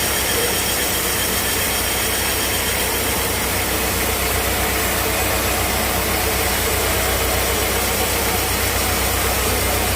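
Sawmill machinery running steadily: a constant low engine hum under an even, wide hiss.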